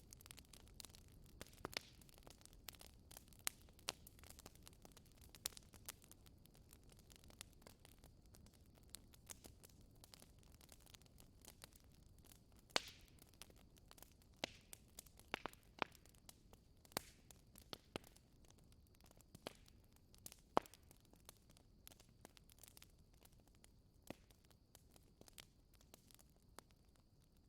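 Wood fire crackling in a fireplace: faint, irregular sharp pops and snaps over a soft low rumble.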